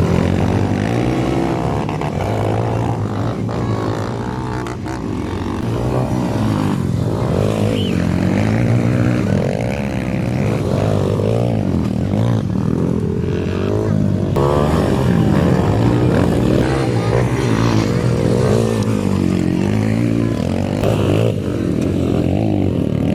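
Several motocross bike engines revving, their pitch rising and falling again and again as the riders throttle on and off around the track, with the sounds of different bikes overlapping.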